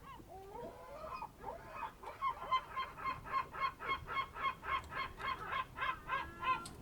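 Bird calls: a few separate calls that slide in pitch, then from about two seconds in a fast, even run of repeated notes, about five or six a second, that stops near the end.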